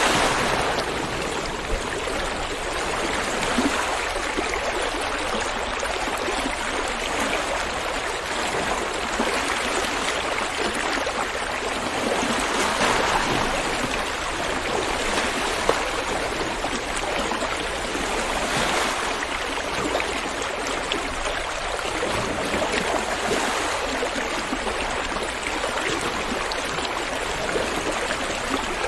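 River water flowing over rocks: a steady rushing and burbling that swells and eases a little every few seconds.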